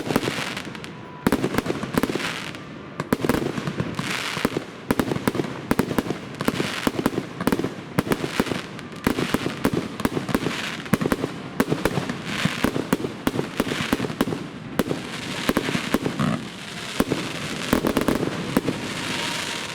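Fireworks going off: a rapid, continuous string of sharp bangs and crackles, many per second, over a steady hiss.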